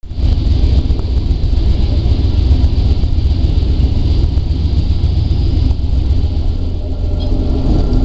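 Steady low rumble of the moving Amtrak California Zephyr passenger train, heard from aboard, cutting in abruptly.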